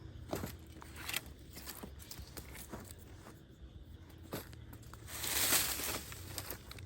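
Footsteps through forest litter, with scattered crunches and twig snaps and a louder rustle of brush about five seconds in.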